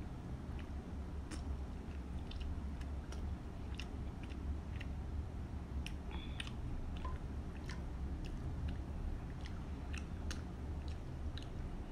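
Close-miked chewing of a mouthful of instant noodles, with scattered sharp clicks from the mouth and the fork and spoon in the bowl, over a steady low hum.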